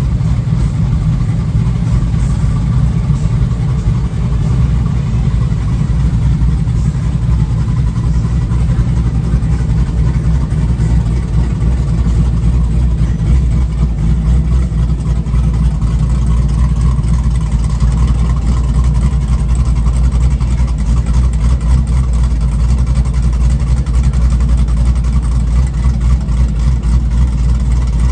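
A vehicle engine idling, a steady, loud low rumble.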